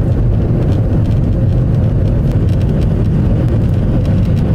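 Airliner's jet engines at takeoff power, a steady low rumble.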